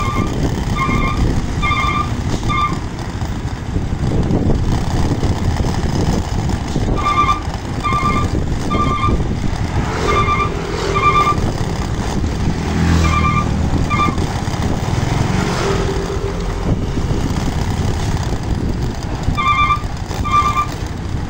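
Heavy truck engines running, with groups of short, sharp electronic beeps that come and go, typical of a truck's reversing alarm.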